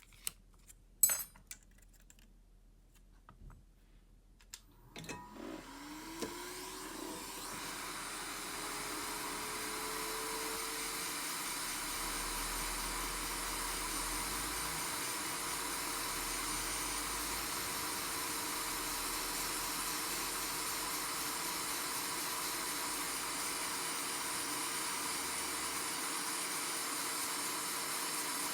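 A few small clicks about a second in, then a hot-air tool's blower switches on about five seconds in. Its motor whine rises in pitch over a couple of seconds and settles to a steady hum, with a rush of air that builds and then holds.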